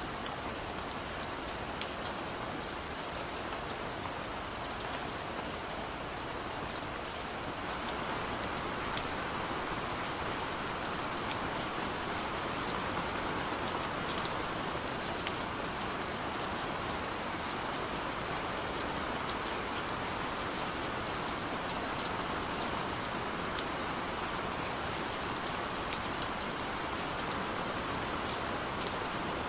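Steady gentle rain falling on a surface, a continuous hiss with many small drop ticks, growing a little heavier about eight seconds in.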